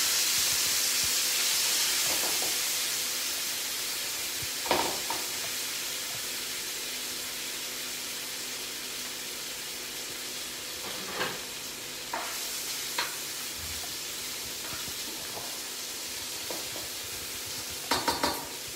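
Lardons, mushrooms and onion sizzling in a non-stick frying pan on high heat. The sizzle is loudest as the mixture goes back into the hot pan and dies down over the first few seconds to a steady frying hiss, with a few short knocks here and there.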